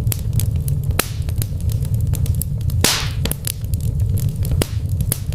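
Wood fire crackling in a brick fireplace: frequent sharp pops and snaps over a steady low rumble, with a brief louder hiss about three seconds in.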